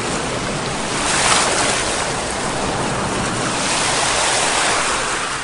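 Sea waves breaking and washing on the shore: one wave breaks about a second in, then the surf swells again toward the end.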